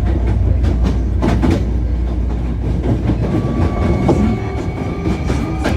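Hankyu 1300 series electric train running, with a steady rumble and repeated clicks of wheels on rail joints. About three seconds in, high steady tones of its Toyo IGBT inverter motor drive set in and carry on.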